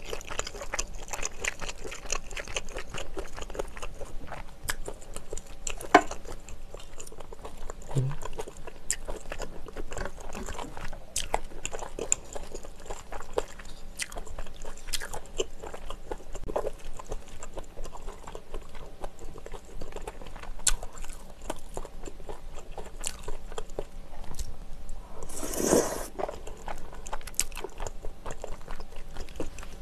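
Close-miked chewing of seafood rosé pasta with chewy glass noodles: a steady run of wet mouth clicks and smacks. A brief, louder rush of noise comes near the end.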